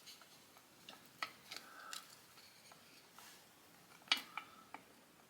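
Faint, scattered clicks and taps of small engine parts and tools being handled during motorcycle transmission reassembly, with the sharpest click about four seconds in.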